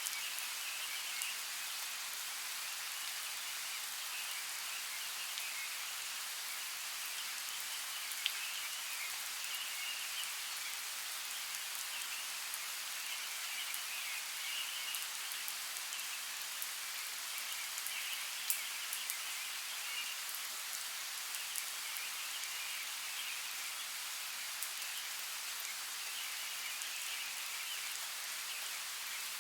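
Steady hiss of running water, with scattered small ticks of drops and a faint, wavering high chirring behind it.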